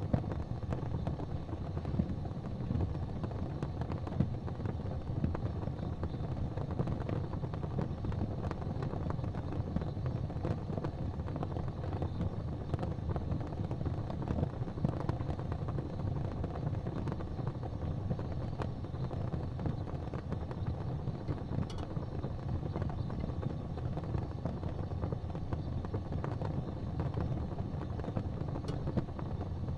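Wood fire burning in an open fireplace: a steady low rumble of the flames, with scattered faint crackles and a clearer pop about two-thirds of the way through.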